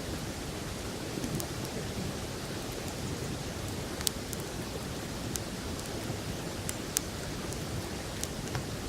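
Wood campfire crackling, with scattered sharp pops over the steady rush of a flowing river.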